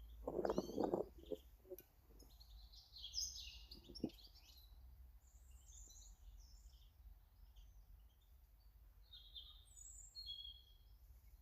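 Small garden birds chirping and calling in short, repeated high notes, picked up close by a feeder camera's microphone. A loud rustling thump comes about half a second in, and a brief knock at about four seconds.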